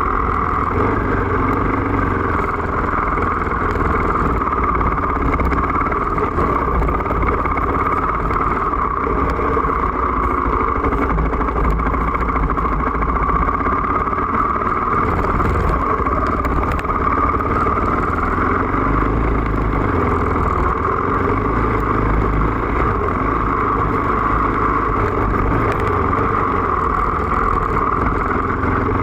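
KTM EXC enduro motorcycle's engine running steadily under way on a dirt trail, recorded from a phone mounted on the bike.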